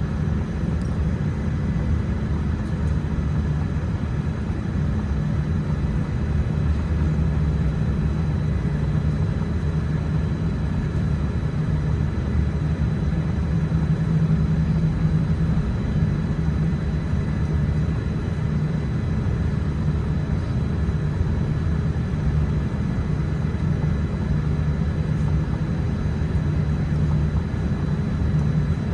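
Steady low rumble inside the cabin of a Boeing 787-10 taxiing on the ground after landing, engines at idle, with a faint steady whine over it.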